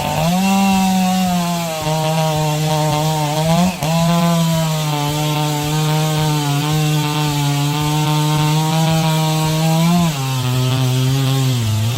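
Husqvarna two-stroke chainsaw running at full throttle and cutting through a wood block. Its pitch sags as the chain bites, with a brief dip about four seconds in and a deeper, longer drop near the end.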